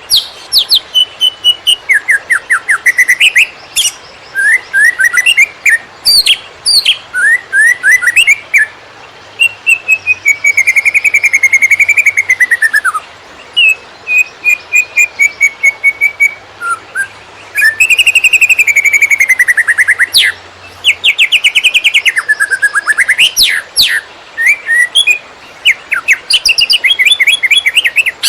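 Green leafbird (cucak ijo) singing in the 'konslet' style: runs of rapid short notes and trills broken by drawn-out whistled phrases that rise and fall, with hardly a pause.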